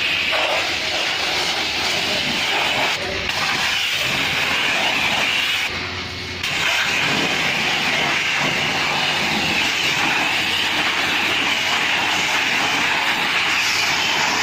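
High-pressure car-wash sprayer hissing steadily as it sprays, briefly easing off about six seconds in.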